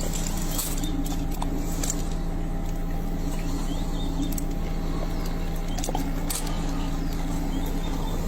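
A steady low hum, like an idling engine, with scattered light clicks and rustles over it.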